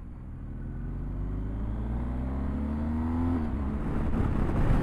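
Motorcycle engine accelerating, rising steadily in pitch and loudness for about three and a half seconds, then turning rougher and louder.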